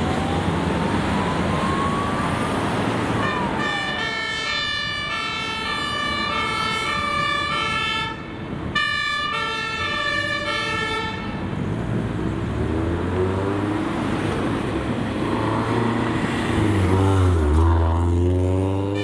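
Emergency vehicle sirens going by. It opens with a wailing siren, then a two-tone horn alternates between two pitches for about seven seconds. Several wailing sirens then overlap over the low rumble of a heavy fire engine, which is loudest near the end.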